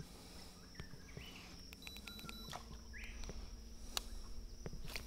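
Steady high-pitched insect buzz, with a few short bird chirps and the occasional sharp click.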